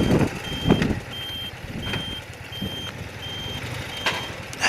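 A high electronic beep repeating evenly about every 0.7 s, over motorcycle engine and wind noise that is loudest in the first second and then drops back.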